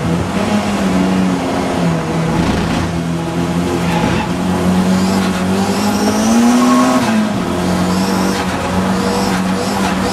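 Audi TT race car's engine running hard at racing speed, holding a steady note, rising in pitch about six seconds in and dropping back about a second later.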